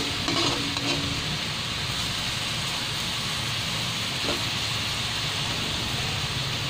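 Chicken pieces and chicken feet sizzling in a hot metal pot as they are sautéed, a steady frying hiss. A metal ladle stirring them gives a few scrapes and clinks near the start and again about four seconds in.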